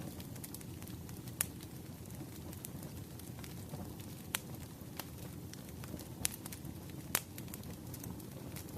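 Firewood burning in a fire: a steady low rush of flames under constant small crackles. Four sharper, louder pops stand out, the loudest near the end.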